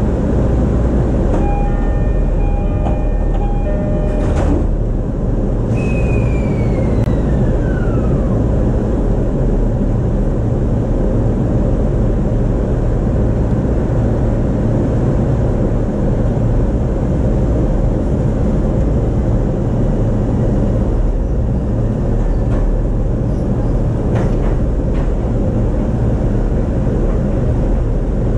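E233-series electric commuter train running, heard from inside the car: a steady rumble of wheels and running gear. About two seconds in there are a few brief steady tones, then a tone that falls in pitch over about two seconds.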